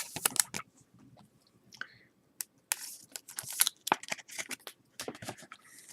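A foil trading-card pack wrapper being torn open and crinkled by hand, in several bursts of crackling.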